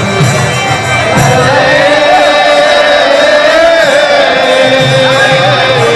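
Devotional music with a voice singing a long, wavering melodic line over steady instrumental accompaniment.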